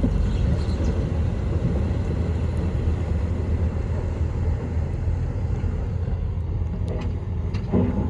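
Heavy diesel earthmoving machinery running steadily with a low rumble, with a couple of short knocks near the end.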